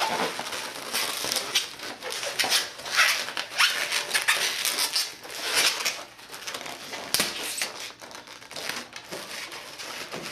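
Latex modelling balloons being twisted and wrapped around each other by hand: the rubber rubbing and scraping in many short, irregular strokes, busiest in the first six seconds.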